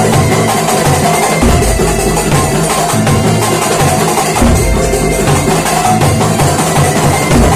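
Kuntulan percussion ensemble playing a steady rhythm: busy hand-drum strokes over a deep drum stroke about every second and a half.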